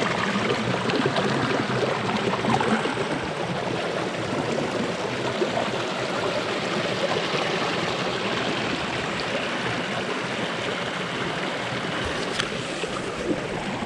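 Rain-swollen stream pouring over a small rock waterfall, a steady rush of running water with a faint click about twelve seconds in.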